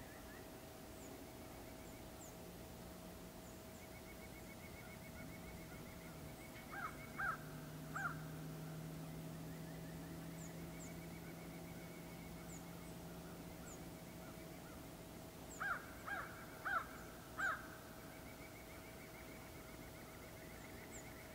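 Quiet outdoor winter ambience in which a bird gives harsh calls in two bouts, three calls about a third of the way in and four more about three-quarters in. Faint high chirps, a faint steady hum and a low distant drone in the middle sit underneath.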